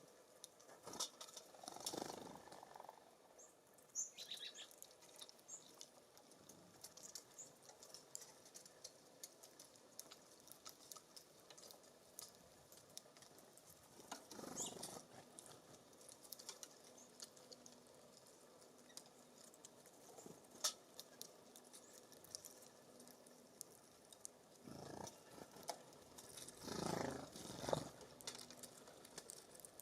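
Faint ambience at a bird feeder: scattered small ticks and taps of birds pecking and hopping on the feeder, a few short high chirps about four seconds in, and soft gusts of wind rustle near the start, midway and near the end.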